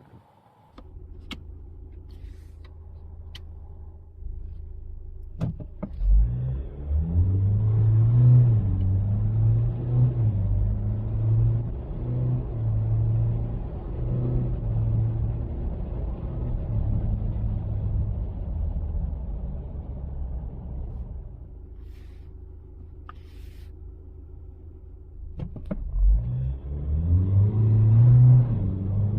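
2024 Ford Ranger's 2.0 four-cylinder bi-turbo diesel idling with a few sharp clicks, then pulling hard under full acceleration through the automatic's stepped gear changes, easing back to idle, and starting a second full-throttle run near the end.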